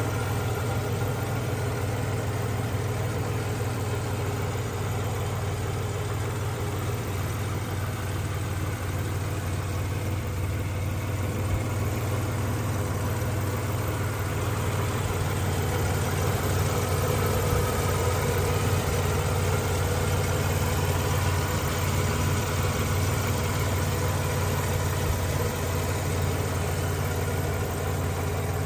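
1990 Mitsubishi Pajero (Montero) wagon's petrol engine idling steadily, heard close up with the hood open.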